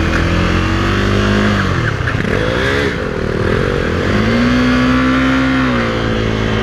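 KTM 390 Duke's single-cylinder engine pulling away on its stock exhaust, its pitch rising, dropping around two seconds in as the throttle is rolled off for a gear change, then climbing again and holding steady.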